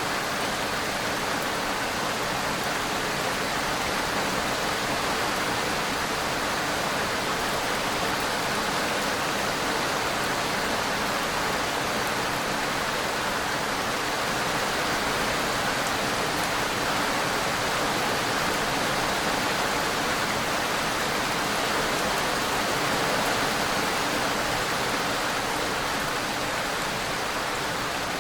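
Steady rain falling, an even continuous hiss with no thunder or distinct drops standing out.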